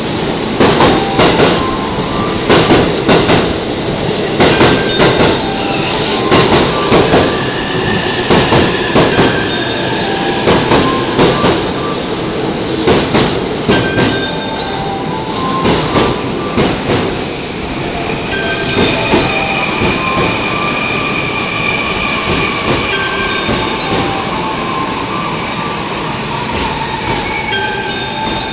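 JR East E531 series electric train cars rolling past close by as the train pulls out, wheels clacking over rail joints with flange squeal. The clacks come thick in the first half and thin out later, while thin squealing tones carry on.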